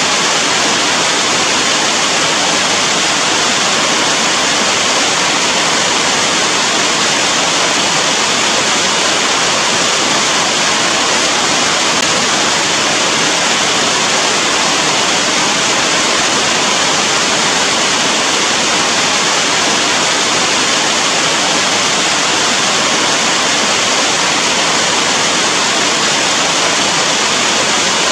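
Steady heavy rain: an even, unbroken hiss with no separate drops or other events standing out.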